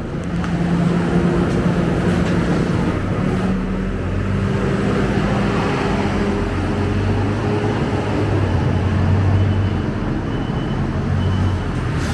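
Scania K270UB bus's nine-litre five-cylinder diesel engine running steadily as the bus drives, its pitch dropping to a lower hum about halfway through, with road noise underneath.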